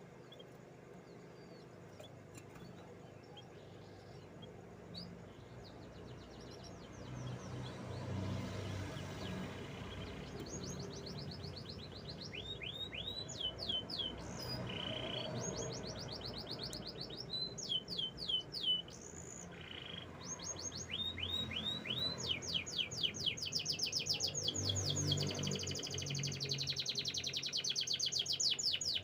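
Domestic canary singing. It is quiet at first; from about twelve seconds in come rapid trills of quick falling notes, which build into long, unbroken trills near the end, over a low background rumble.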